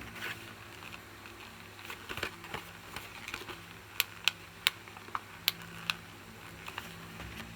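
Light plastic clicks and taps from close-up handling of toy action figures: soft, scattered rustling clicks at first, then a run of crisper single clicks from about four seconds in.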